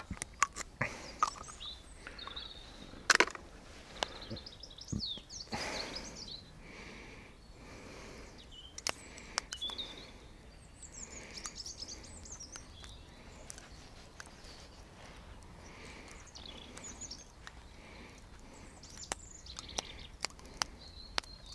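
Small birds chirping and singing on and off, with scattered sharp clicks and knocks close by, the loudest about three seconds in.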